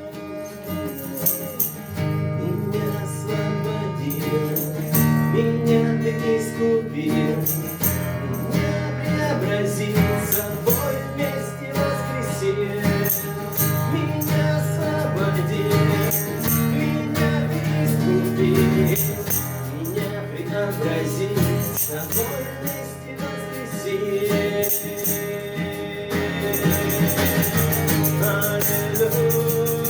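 Worship band playing an instrumental stretch of a praise song: steady bass and sustained chords, with bright jingling percussion keeping a regular beat.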